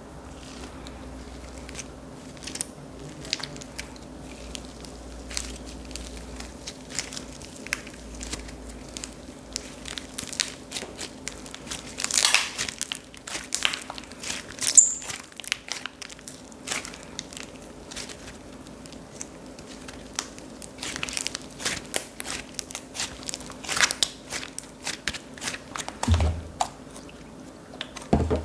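Slime being squeezed and worked by hand, giving irregular crackling and clicking with a few louder pops.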